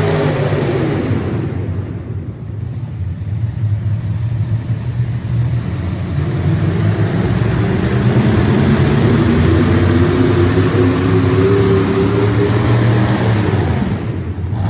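Small-block V8 engine of a four-wheel-drive pulling truck running hard. Its pitch drops in the first second, then climbs slowly through the middle.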